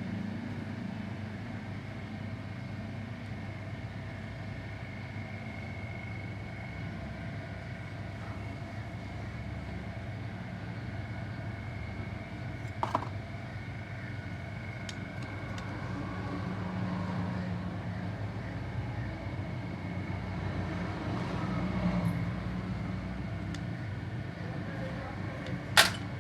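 Steady mechanical hum of a workshop, with a few sharp metallic clinks, the loudest just before the end and another about halfway through.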